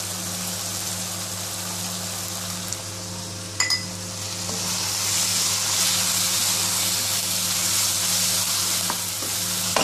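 Onions and fenugreek leaves with chilli and coriander-cumin powder frying in oil in a kadhai, stirred with a wooden spatula: a steady sizzle that grows louder from about five seconds in. A single sharp knock about three and a half seconds in, over a low steady hum.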